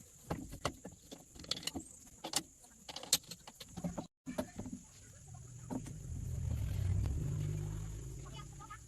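Sharp clicks and clinks, as of hand tools on metal parts; after a cut, a low vehicle engine rumble swells and fades, as of a vehicle passing.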